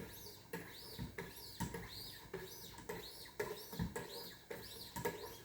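Whetstones of a Wicked Edge guided sharpener scrubbing back and forth along a VG10 chef knife's edge, about two strokes a second, each stroke carrying a faint rising-and-falling whistle from the stone sliding on the guide rods. The strokes stop near the end.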